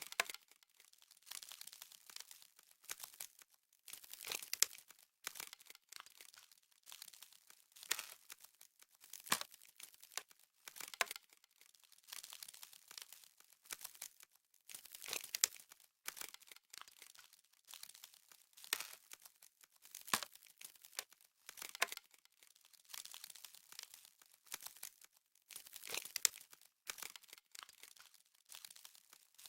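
Frost crackling sound effect: irregular bursts of crisp, high crinkling crackle, each half a second to a second long, with short gaps between.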